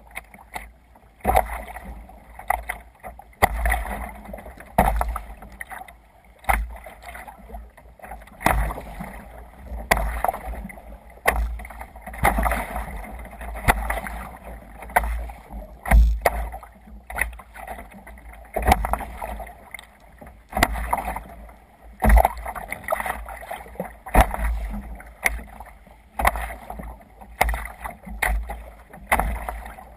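Sea kayak moving through choppy water: repeated splashes and slaps of water against the hull, about one every second or so.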